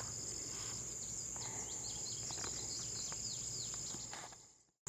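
Outdoor ambience: a steady high insect drone with a bird calling in a string of quick downward-slurred chirps. Everything fades to silence just before the end.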